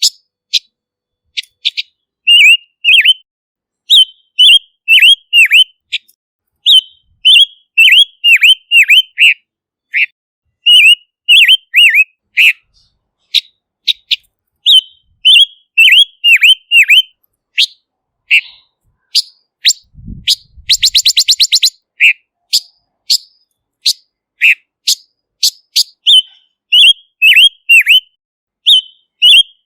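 Silver-eared mesia singing: a quick, continuous string of short whistled notes, many dipping sharply in pitch, broken about two-thirds of the way through by a fast rattling trill.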